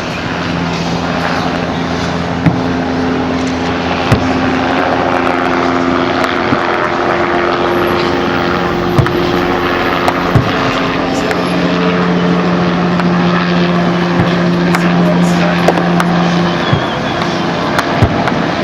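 Fireworks bursting, sharp bangs every one to few seconds over a steady noisy background with a continuous mechanical drone that changes pitch a few times.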